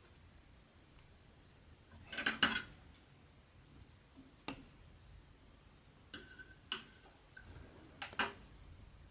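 Hand cross-stitching: the needle ticking as it pierces the cross-stitch fabric and thread drawn through, heard as a few scattered small ticks and short scratchy pulls, the loudest cluster a couple of seconds in.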